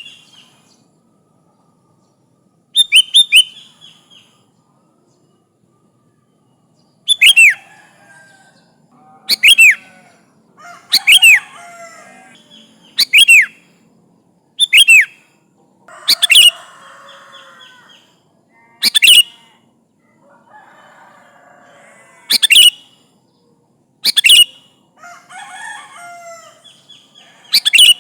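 Sooty-headed bulbul singing: about eleven loud, short whistled phrases that sweep down in pitch, one every second or two, with softer chattering notes between several of them.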